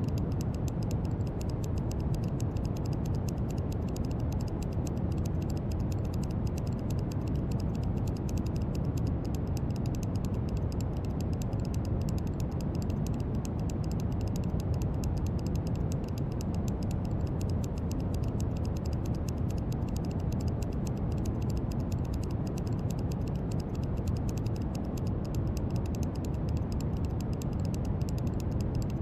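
Steady brown noise: an even, deep hiss weighted toward the low end, unchanging throughout. Over it runs a faint, fast, continuous patter of tiny clicks.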